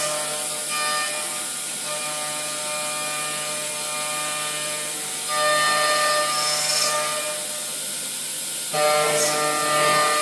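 High-speed milling spindle on a robot arm running and machining: a steady mechanical whine made of several steady tones, louder for stretches starting about five seconds in and again near nine seconds.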